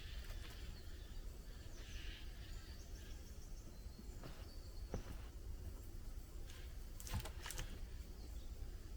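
Faint outdoor ambience with a low steady rumble, broken by a few short knocks and rustles about five seconds in and again around seven seconds in, and faint chirps.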